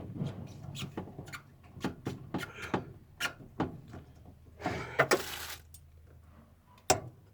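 Small plastic clicks and knocks as hands wiggle and press the quick-connect clip of a fuel hose on a car's in-tank fuel pump, trying to release it. A brief rustle comes about five seconds in.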